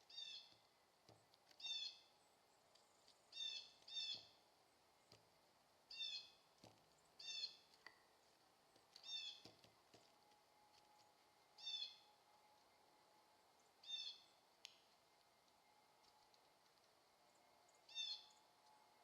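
Carolina wren calling: short, high clusters of quick notes, repeated about every one to two seconds, with a few faint knocks in between.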